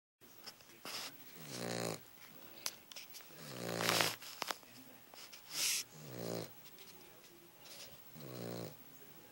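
Cavalier King Charles Spaniel puppy snoring in its sleep: four pitched snores about two seconds apart, with a breathy hiss between two of them.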